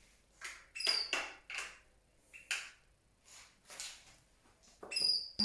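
Pet canaries giving short chirps and call notes, several brief high notes with quiet gaps between.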